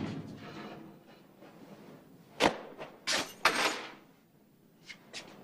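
A sharp thud about two and a half seconds in, then two more thuds with some rustling half a second later, and a few faint clicks near the end.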